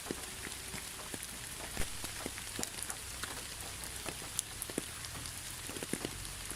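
Steady rain falling, an even hiss with many separate drops ticking and plinking on a surface at irregular moments.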